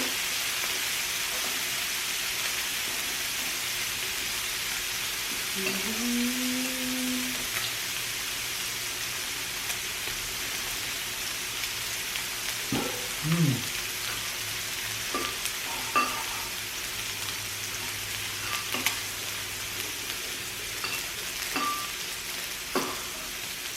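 Pork belly sizzling steadily on a grill, with a few light clicks and two brief hums, one about six seconds in and another near thirteen seconds.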